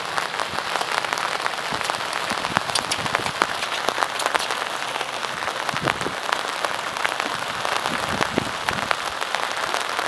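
Steady rain falling, a dense hiss with many small drops ticking.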